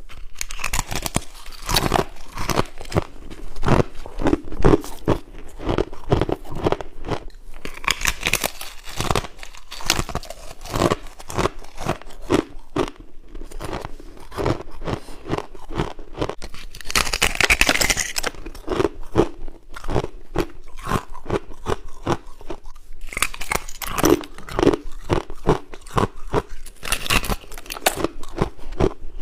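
A person chewing frozen ice frost close to the microphone: rapid, irregular crunches throughout, with a few louder bursts of crunching along the way.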